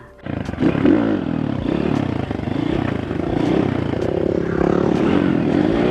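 Small pit bike engine revving, its pitch rising and falling several times as the bike is ridden, starting just after the opening.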